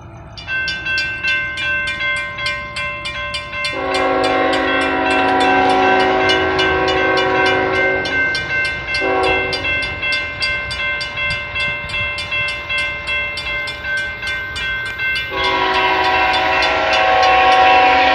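Grade-crossing warning bell starts ringing at a steady fast pace about half a second in. A CSX freight locomotive's multi-chime air horn then sounds the crossing signal over it: two long blasts, a short one, and a final long blast.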